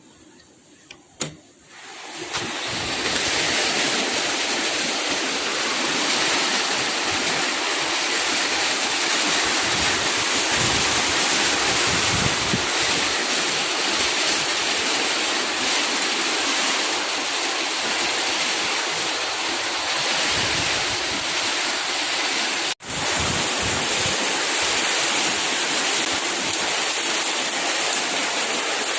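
Heavy rain pouring down in strong wind: a dense, steady rush of rain that comes in about two seconds in, just after a single click, with uneven low gusty rumbles under it. The sound drops out for an instant about three-quarters of the way through.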